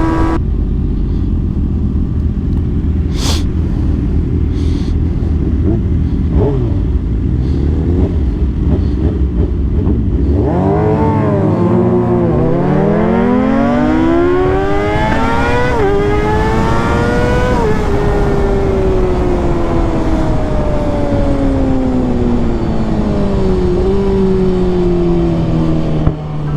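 Sportbike engine heard from the rider's seat at speed: a low steady rumble of wind at first, then from about ten seconds in the engine pulls hard with its pitch climbing, dipping briefly at two upshifts, before falling slowly as the throttle is rolled off.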